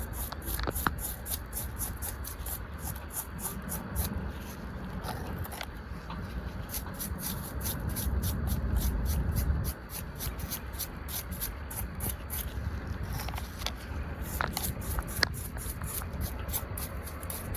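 Small brush scrubbing dried mud off a miniature toy car, in quick, even back-and-forth strokes about four a second, with a few light clicks.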